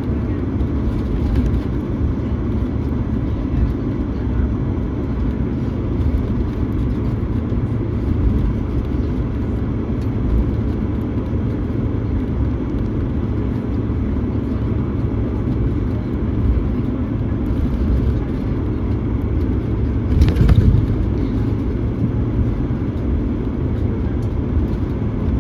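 Steady low engine rumble of vehicles or aircraft at an airport, with a faint steady whine, and one louder swell about twenty seconds in.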